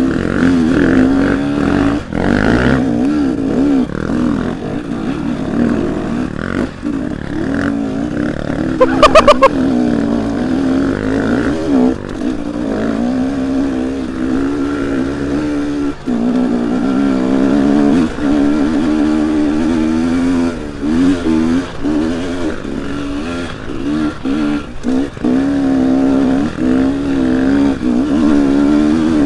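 Dirt bike engine running under a rider on a trail, its pitch rising and falling as the throttle opens and closes. About nine seconds in there is a brief, loud rapid clatter.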